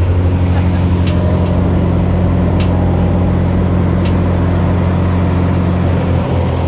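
Small propeller airplane's engine and propeller droning steadily with a deep hum during the climb, heard from inside the cabin.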